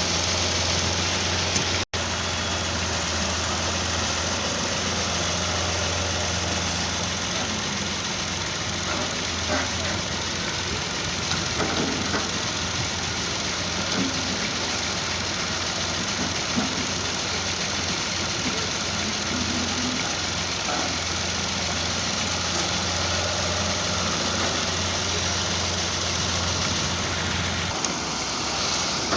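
Heavy diesel machinery running steadily with a constant low drone and occasional faint knocks. The drone stops near the end, leaving a rushing hiss.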